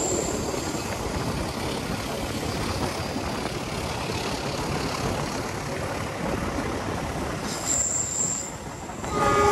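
Passenger train running at speed, heard through an open carriage window: a steady rush of wind and wheels on rail, with a thin high-pitched wheel squeal briefly near the start and again about eight seconds in as the train takes a curve.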